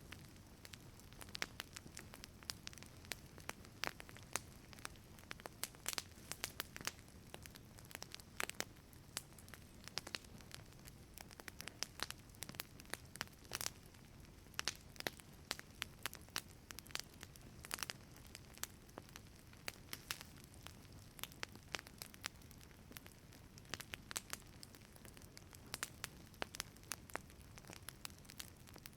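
Wood fire crackling in a wood-fired pizza oven: irregular sharp pops and snaps, several a second, over a soft low rumble of the flames.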